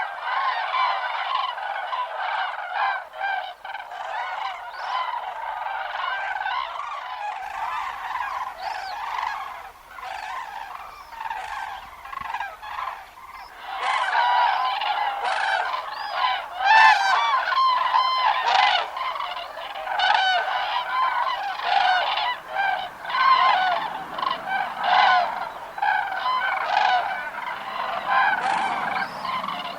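A flock of cranes calling, many loud trumpeting calls overlapping one another. The calls grow louder and denser about halfway through.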